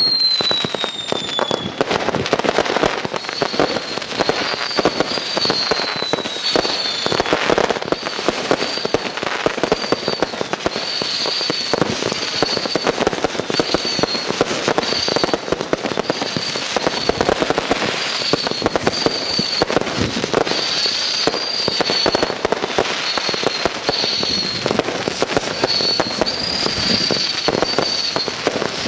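Fireworks display: a dense, unbroken barrage of shell bursts and crackling, opening with a falling whistle.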